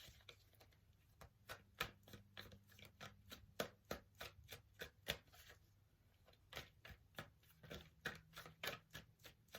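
Tarot deck being shuffled and cut by hand: a faint, irregular run of soft card taps and slaps, several a second.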